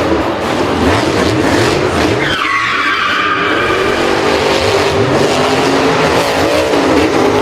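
Racing vehicle engines revving in repeated rising climbs, with a tire skid squeal that falls in pitch a little over two seconds in.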